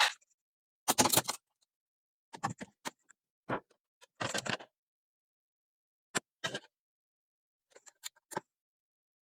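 Short clicks, snips and brief scrapes of hand tools working electrical wire, as a ground wire is cut, trimmed and fitted in a breaker panel. They come one at a time, with silent gaps between.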